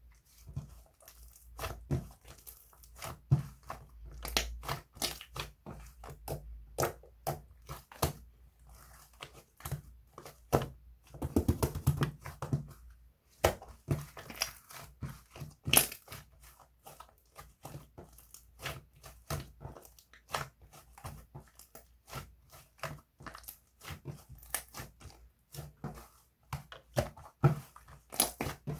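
Close-up crackling and crunching: a long run of short, sharp crackles and snaps at an uneven pace, with a denser crumpling stretch about eleven seconds in.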